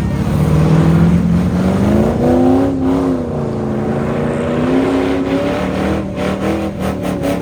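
Sport compact dirt-track race car engine revving, its pitch climbing in the first second or two, then wavering up and down and holding at high revs. A few sharp knocks come near the end.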